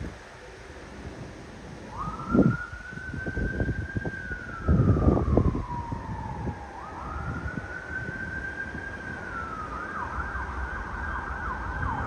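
Police car siren sounding a slow wail that rises, holds, sinks and rises again, then switches to a fast yelp near the end. Two loud low bursts of rumble, like wind on the microphone, come a couple of seconds in and about halfway.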